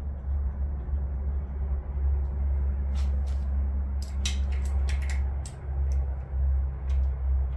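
Light metal clicks and clinks of bolts being handled and set into an engine block, bunched in the middle, over a steady low hum.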